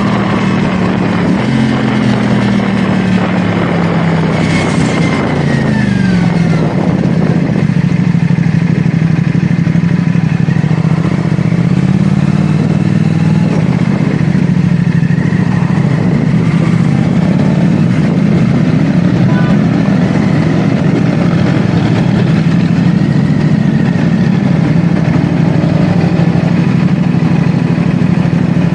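CFMoto 450SR S parallel-twin engine running on the move. Its pitch falls over the first several seconds as revs drop, then holds fairly steady with small rises and dips.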